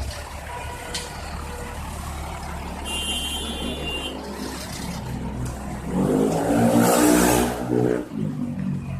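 Big trucks' diesel engines running on a road, a low steady rumble. About six seconds in one truck's engine grows louder for a couple of seconds as it passes, with a burst of hiss at its loudest. A brief high-pitched tone sounds about three seconds in.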